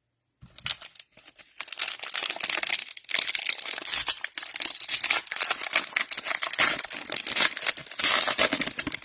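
Cellophane wrapper of a trading card cello pack crinkling loudly as it is handled and opened, starting about half a second in.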